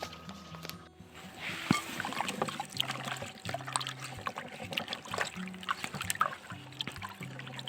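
Water trickling and splashing in quick irregular crackles, starting about a second in, over quiet background music with slow low notes.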